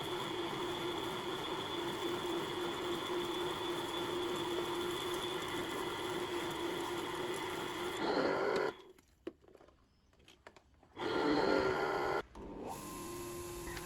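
A small electric motor tool running steadily with a held whine. It stops for about two seconds, runs again loudly, then continues more quietly.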